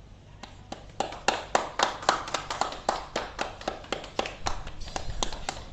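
A small group clapping. A few separate hand claps start about half a second in, then come thick and fast from about a second in.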